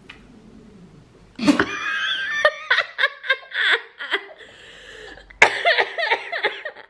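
A woman laughing hard in several bouts, breaking out suddenly about a second and a half in, with another strong bout near the end.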